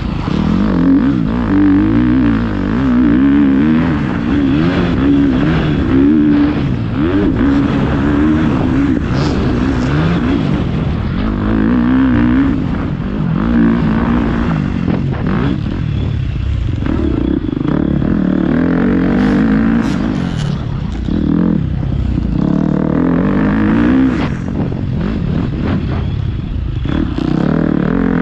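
Motocross dirt bike engine revving up and down as it is ridden around the track, its pitch rising and falling repeatedly with each throttle change.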